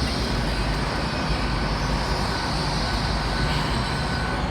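Steady low rumble of a Great Western Railway Class 800 train standing at the platform with its underfloor diesel engines idling.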